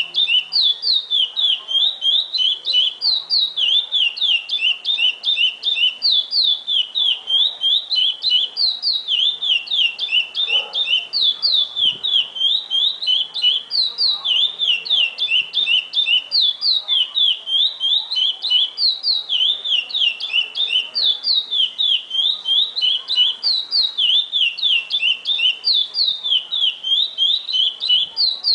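A curió (chestnut-bellied seed finch) singing the classic 'praia' song: a fast string of clear, high, downslurred whistled notes, repeated phrase after phrase without a break.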